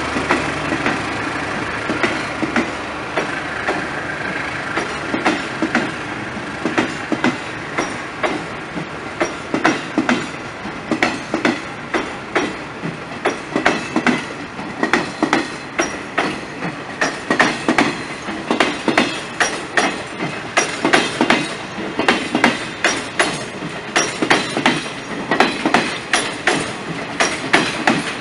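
A passenger multiple-unit train running past. An engine hum is heard at first, then the wheels clack over the rail joints in quick groups of clicks that get louder and more frequent as the train gathers pace.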